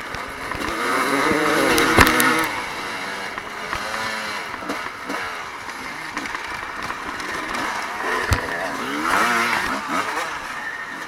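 Evo-class motocross bikes racing, engines revving up and down as they pass. The engines are loudest about two seconds in and again around nine seconds.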